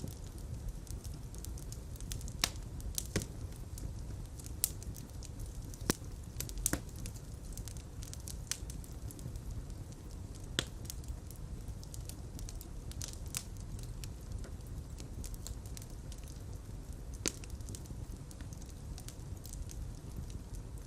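Fire in a fireplace crackling, with sharp irregular pops over a steady low rumble of flames.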